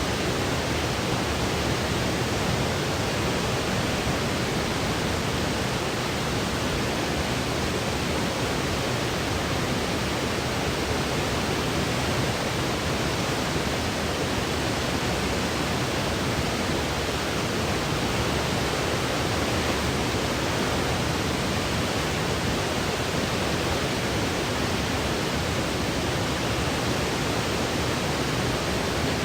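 Steady sleep white noise: an even, unchanging hiss with no tones or rhythm, fading out above the highest treble.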